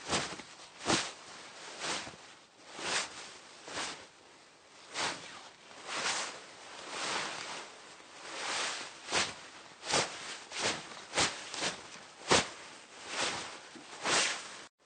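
Hanbok fabric rustling and swishing as the wearer moves, in a string of irregular swishes about half a second to a second apart.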